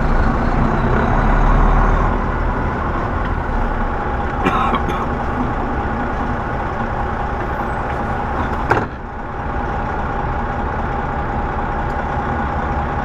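Semi truck's diesel engine running steadily, heard from inside the cab, with a heavier rumble in the first couple of seconds. A short click comes about four and a half seconds in and a sharp knock near nine seconds, after which it is slightly quieter.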